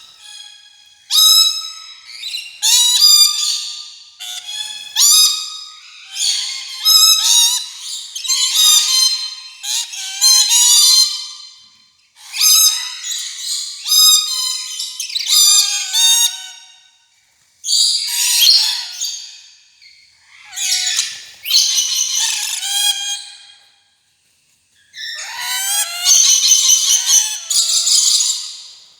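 Rainbow lorikeet chattering: a string of high call bursts, each a second or two long, with a pause of about a second near the end.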